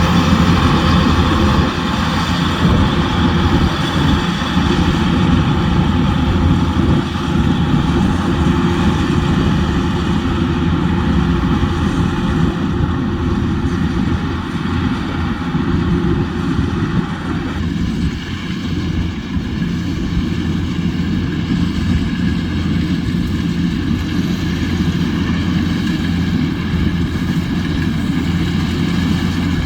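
Rice combine harvester running steadily, its engine a continuous low drone; about two-thirds of the way through, the higher part of the sound eases off while the engine note carries on.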